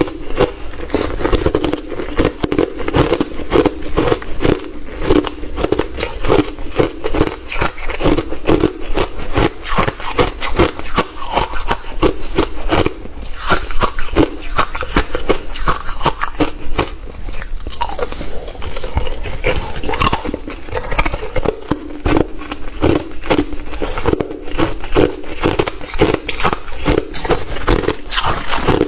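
A person chewing hard, refrozen crushed ice close to the microphone, a dense, rapid run of loud crunches that eases briefly about two-thirds of the way through.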